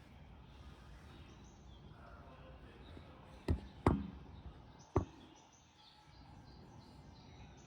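Three sharp knocks over faint background noise: two in quick succession, then a third about a second later.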